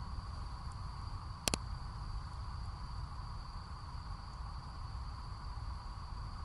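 Campfire of burning wood giving one sharp pop about a second and a half in, over a steady high insect trill from crickets and a low rumbling background.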